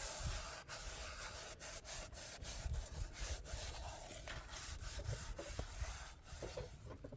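Continuous scraping on a surface, dotted with sharp clicks and knocks, dying away near the end.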